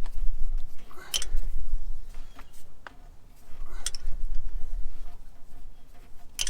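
Hand work on engine nuts and studs: a few sharp metallic clicks, spaced a couple of seconds apart, over low handling rumble, as a tight nut is worked onto its stud.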